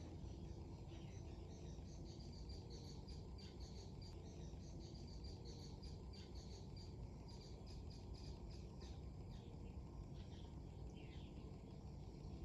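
Small birds chirping and twittering, many short high calls, over a steady low rush of wind.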